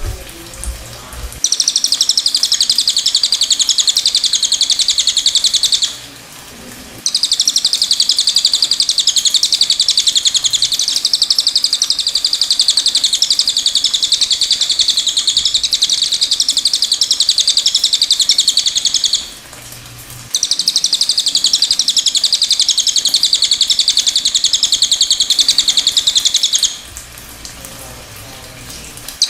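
Cililin (serindit, blue-crowned hanging parrot) singing a rapid, high-pitched trilling chatter in long unbroken bouts, pausing briefly about six, nineteen and twenty-seven seconds in. A soft trickle of running water lies underneath.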